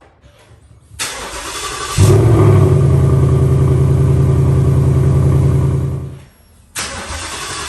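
A 2018 Mustang GT's 5.0 V8 is started. The starter cranks for about a second, then the engine catches loudly and runs steadily. Near the end the sound cuts away and a second start begins with the starter cranking.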